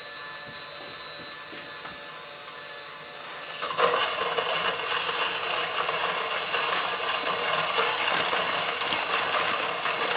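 A cordless drill's motor running a prototype coffee grinder with a steady whine. About four seconds in, a louder, dense crackling crunch sets in and continues: coffee beans being ground.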